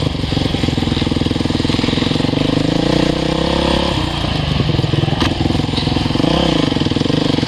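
Motocross bike engine running, with a brief rise and fall in pitch about six seconds in.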